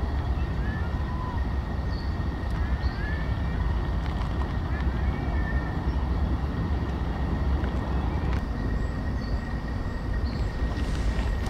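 Wind rumbling on the microphone, with a few short, high bird chirps in the first half.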